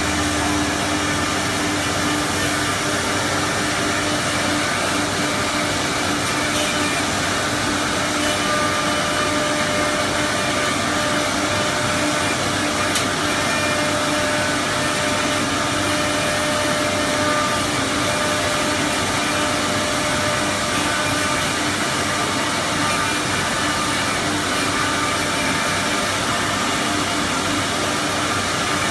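CC MS1325AC4 four-axis CNC router with automatic tool changer running: a steady whir with a steady hum. A single faint click comes about halfway through.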